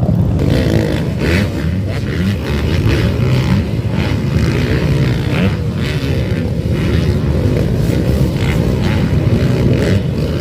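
Several motocross bike engines racing at once, their pitch rising and falling as riders work the throttle.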